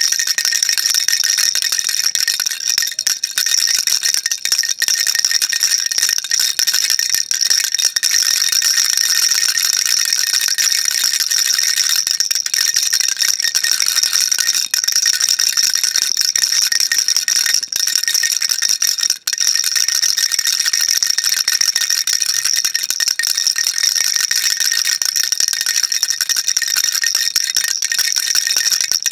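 Baby rattle shaken continuously, a dense, bright, high-pitched rattling of small beads with no clear beat. It briefly drops out once about two-thirds of the way through.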